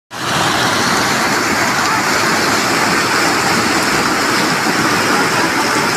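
Heavy tropical downpour: a dense, steady rush of rain.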